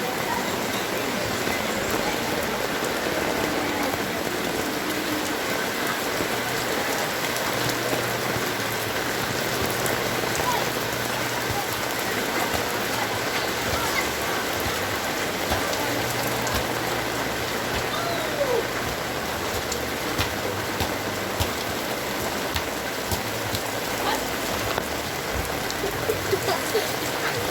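Heavy rain falling steadily, a constant dense hiss with fine scattered drop ticks.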